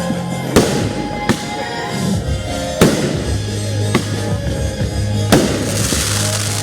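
Fireworks shells bursting with a series of sharp bangs, two of them louder than the rest, and a brief crackling hiss after the last big one, over music.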